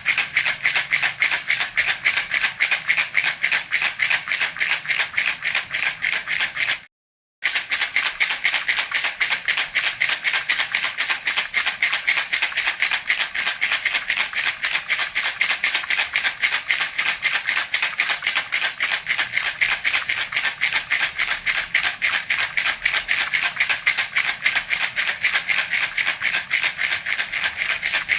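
Baby rattle (jhunjhuna) shaken steadily, a continuous, even run of rapid rattling shakes, with a brief half-second break about seven seconds in.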